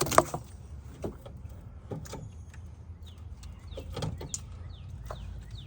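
Scattered knocks and clicks of an alternator and tools being handled and shifted in a car's engine bay, the loudest knock just after the start, over a steady low rumble.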